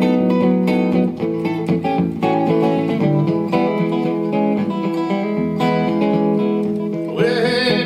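Solo blues guitar playing an instrumental passage, notes picked and chorded in a steady groove.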